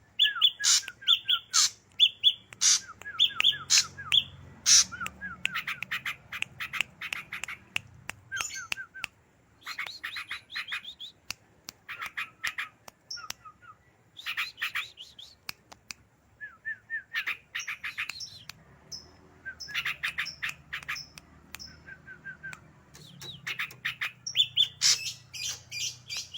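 Ashy drongo singing in bursts: quick strings of short whistled notes mixed with sharp clicks and harsh chattering phrases, with brief pauses between the bursts.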